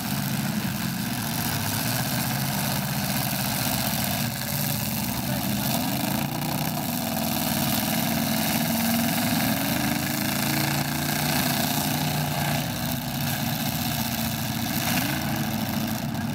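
Demolition derby cars' engines running and revving, several at once, with engine pitch rising and falling through the middle as they manoeuvre.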